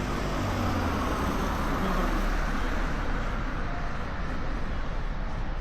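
Road traffic: a vehicle's tyre and engine noise swells as it passes, loudest about two seconds in, then eases back into the steady background rush of the street.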